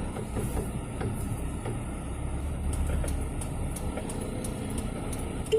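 Steady low rumble of a motor vehicle running, swelling a little partway through, with a few faint clicks.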